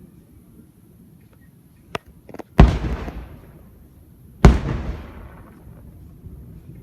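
Aerial firework shells bursting overhead: a sharp crack and a couple of small pops, then two loud booms about two seconds apart, each followed by a fading rumble.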